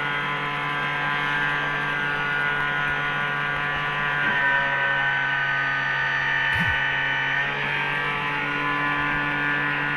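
Aircraft fuel booster pump running on a test bench, a steady electric hum and whine made of several even tones. The pitch of the higher whine shifts slightly about four seconds in and again near eight seconds.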